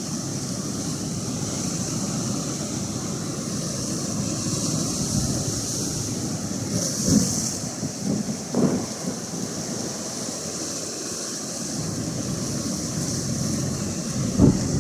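Atlantic Ocean surf washing steadily, with wind buffeting the microphone in gusts about seven and eight seconds in and again near the end.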